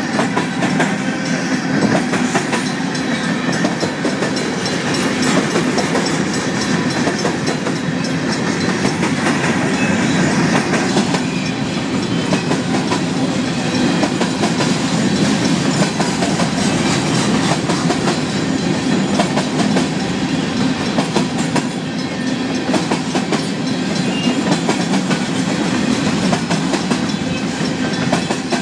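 Loaded covered hopper cars of a Union Pacific grain train rolling past close by: a steady, loud rumble of steel wheels on rail with a constant clickety-clack of wheels over the rail joints.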